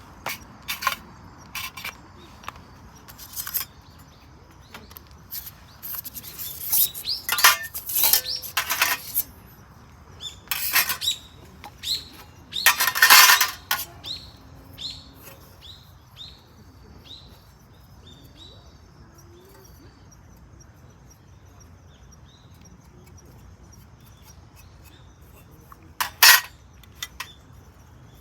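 Hard metal pieces clink and rattle in quick bursts as they are handled, loudest in the first half and once more near the end. In between, a bird gives a run of short, falling chirps.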